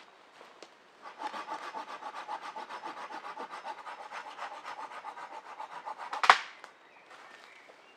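Hand saw cutting through wood in quick back-and-forth strokes, about six a second, the blade ringing, then one sharp crack about six seconds in.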